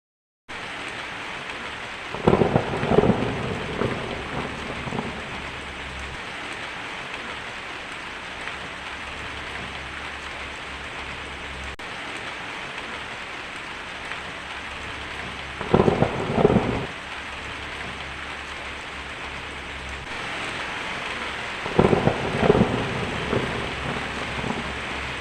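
Heavy rain drumming steadily on a tin roof, with three crackling claps of thunder: one about two seconds in and two more in the second half.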